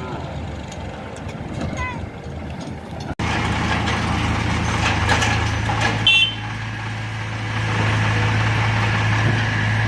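Tractor diesel engine running steadily, with faint voices before an abrupt cut about three seconds in, after which the engine is louder. A short high-pitched squeal or beep comes about six seconds in.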